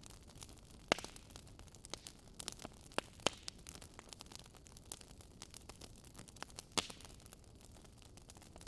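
Wood fire crackling: a soft steady hiss with irregular sharp pops, the loudest about a second in, twice around three seconds in, and again near seven seconds.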